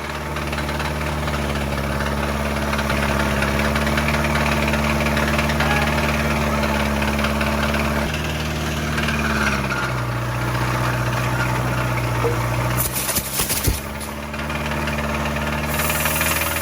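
Truck engine running steadily at raised speed, which drops about nine seconds in and picks up again a few seconds later. Short bursts of hiss and a sharp crack come during the lower-speed stretch, and more hiss near the end.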